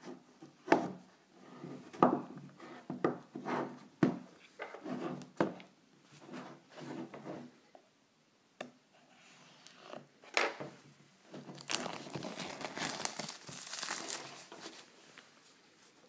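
iPhone 5S box packaging being handled: a string of knocks and rustles, then a few seconds of crinkling and tearing near the end.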